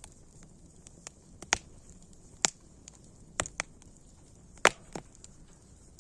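Wood fire crackling: sharp, irregular pops and snaps, the loudest about two and a half and four and a half seconds in, over a faint steady hiss.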